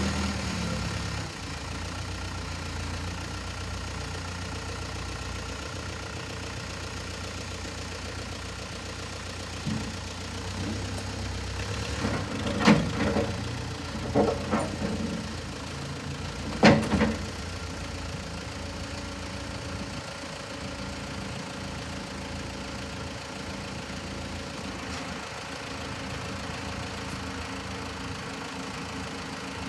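Case 580B backhoe's engine idling steadily, with a few loud, short bursts of noise around the middle.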